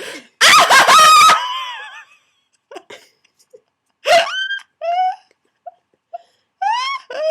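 A person's voice making loud, strained screeching noises for comic effect. One long screech comes near the start, then shorter rising squeals about four and five seconds in and near the end.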